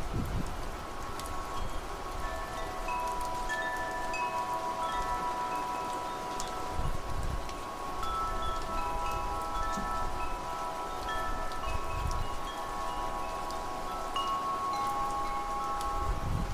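Wind chimes ringing, many overlapping tones struck in turn and left to ring, with low gusts of wind rising and falling underneath.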